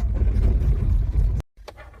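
A cold car engine cranking on its starter with a low, pulsing churn that doesn't catch, stopping abruptly about one and a half seconds in. Light clicks follow.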